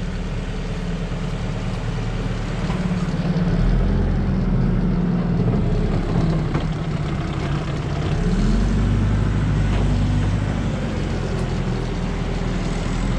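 Vehicle engine running steadily, its pitch shifting upward and then settling lower about eight seconds in.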